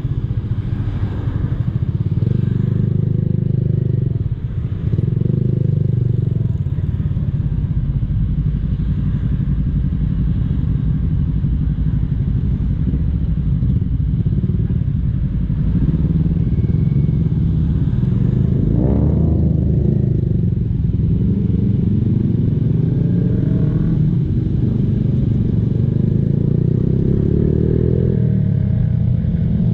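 Honda Blade motorcycle's single-cylinder four-stroke engine running through an aftermarket racing exhaust while being ridden, a steady low exhaust note whose pitch swings with the throttle, rising near the end as it speeds up.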